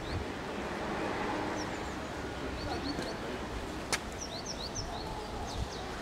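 Steady outdoor background noise with small birds chirping in short, repeated high calls, and one sharp click about four seconds in.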